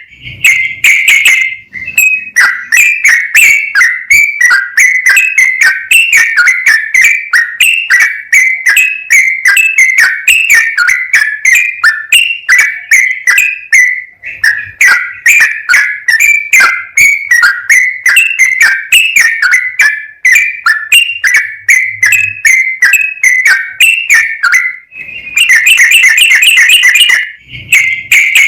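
Yellow-vented bulbul (trucukan) singing a long, rapid song: loud whistled notes repeated about three to four a second, with a short break about halfway through and a faster, denser trill near the end.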